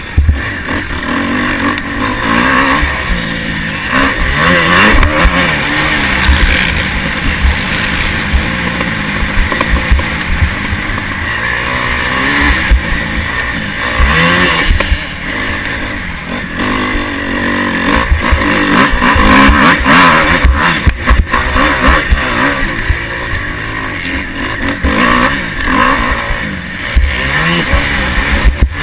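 Motocross bike engine seen from on board, revving up and falling back again and again as the rider accelerates, shifts and brakes around the track. A heavy, uneven low rumble of wind and jolts hits the onboard camera's microphone throughout.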